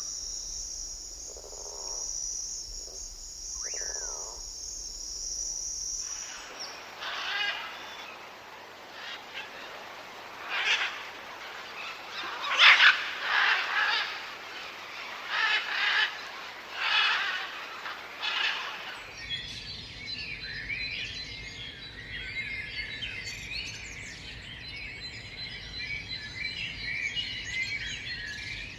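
Rainforest birds calling in three stretches. First an insect's steady high drone with a few rising bird whistles. Then loud bird calls repeated about once a second. Then, from about two-thirds of the way through, a dense chorus of many birds chirping at once.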